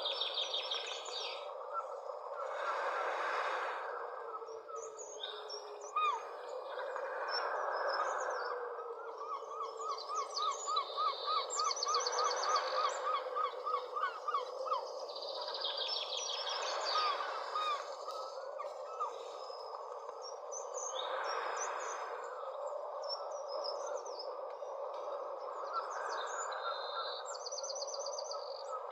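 Many birds calling and singing at once, a dense chorus of chirps and trills. In the middle there is a fast run of repeated chirps, about three a second, and high rattling trills come in several times.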